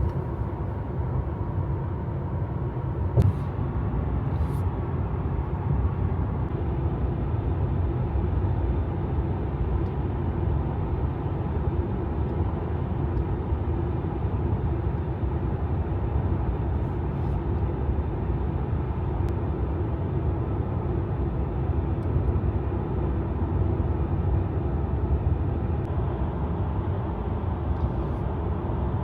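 Steady road and tyre rumble heard from inside a Tesla cruising on an expressway, with a single sharp knock about three seconds in.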